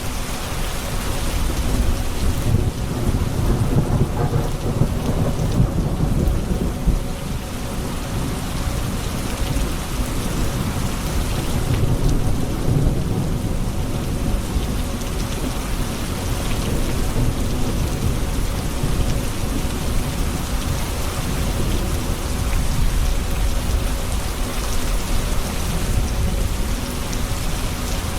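Steady heavy rain falling on surfaces, with deep rolls of thunder swelling and fading several times.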